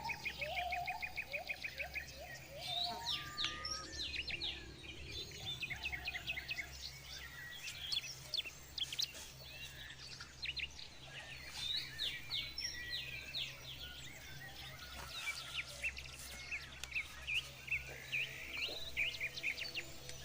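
Several forest birds chirping and calling in quick, overlapping short notes, with a fast, even trill in the first two seconds.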